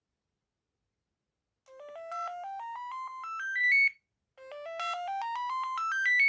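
Amstrad S288 (Bird S288) mobile phone's power-on jingle: a rising run of short electronic notes from its loudspeaker, climbing step by step. It plays twice, starting about two seconds in.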